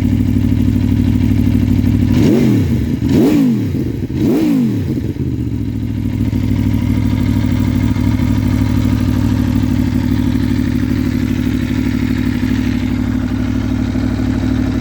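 Aprilia Tuono V4 1100 Factory's V4 engine, fitted with a full Akrapovic exhaust, idling steadily. It is blipped three times in quick succession about two to four and a half seconds in, then settles back to idle.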